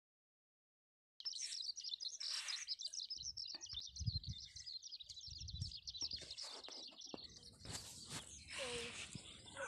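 After about a second of dead silence, faint rapid high-pitched chirping from a small bird runs on for several seconds. Soft rustling and a few dull thumps sit underneath.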